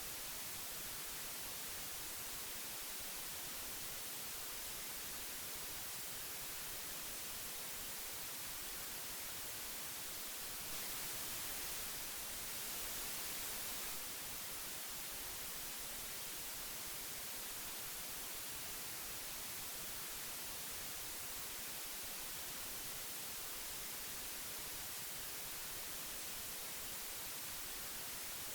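Steady hiss of old magnetic tape, strongest in the treble, growing slightly brighter and louder for a few seconds about eleven seconds in.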